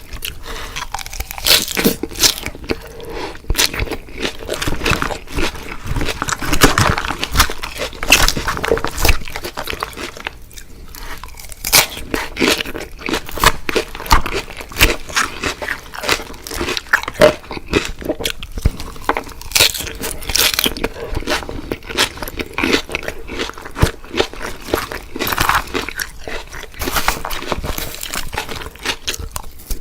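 Eating fried food: repeated crunchy bites and chewing, a dense run of irregular crackles with a short lull about ten seconds in.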